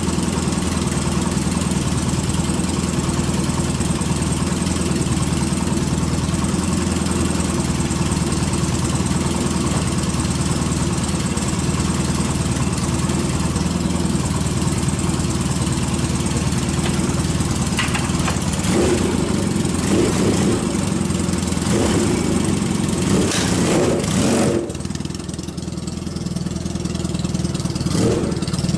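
Freshly rebuilt Yamaha XS650 air-cooled parallel-twin motorcycle engine running at idle, with a few short changes in the engine note in the last third. No tappet tapping or knocking is heard in it after the valve and tappet work.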